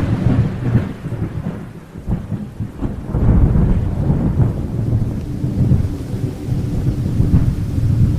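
Rain falling during a thunderstorm, with thunder rumbling that swells and fades throughout.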